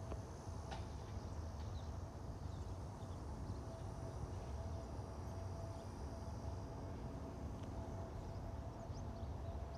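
Steady low rumble with a faint, steady high whine from the CFM LEAP-1A engines of a distant Airbus A320neo on approach to land.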